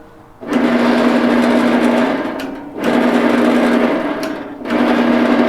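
Horizontal band saw running, heard in three bursts of about one and a half to two seconds each: a steady hum under a rasping noise.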